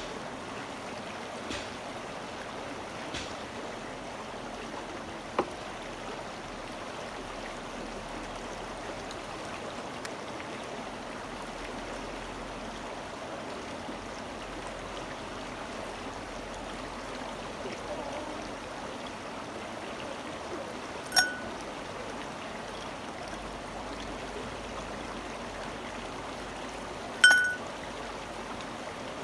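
Steady running stream or brook. Two sharp, ringing clinks about six seconds apart stand out near the end; the second is the loudest sound.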